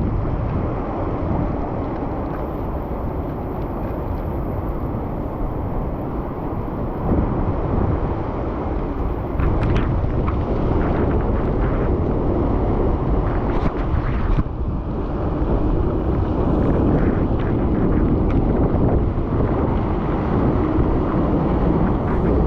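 Wind rumbling on the microphone of a camera carried on a bicycle riding through a rainstorm, with the hiss of wet road under it and a few sharp clicks or rattles about halfway through.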